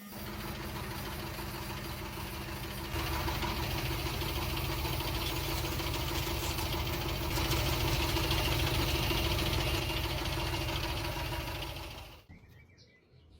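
A steady machine noise, like a small motor running, with a hiss over it. It gets louder about three seconds in and cuts off abruptly near the end.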